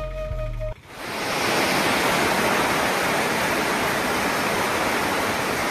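Flute background music that cuts off under a second in, then heavy rain falling, a steady hiss that swells in and holds.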